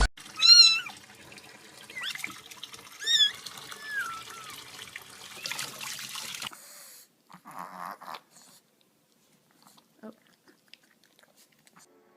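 A domestic cat meowing several times over a steady hiss. The loudest meow comes about half a second in and others follow around three and four seconds in. The hiss stops abruptly a little past halfway, leaving a few faint short sounds.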